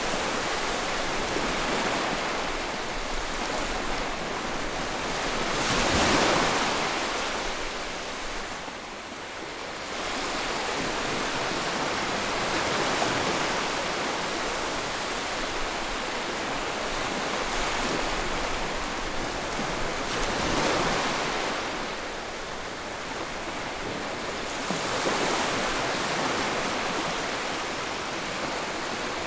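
Ocean waves breaking and washing on a shore: a continuous rush of surf that swells as individual waves break, most strongly about six seconds in, again around twenty-one and twenty-five seconds, and eases in between.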